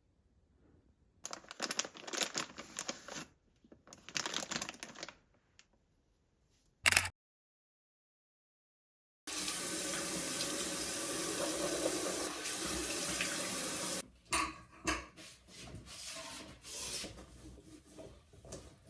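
A water tap running into a sink in a steady rush for about five seconds, starting and stopping abruptly in the middle of the stretch. Before it come two short bursts of handling noise and one sharp click. After it comes a run of light clicks and knocks.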